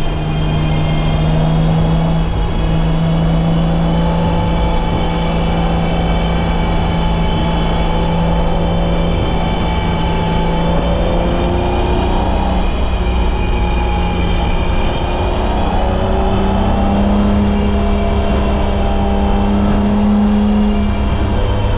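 BMW E30's M20B25 2.5-litre inline-six running under load at lap speed. Its pitch holds fairly steady, dips slightly around the middle and climbs a little in the last few seconds, over a steady low rumble.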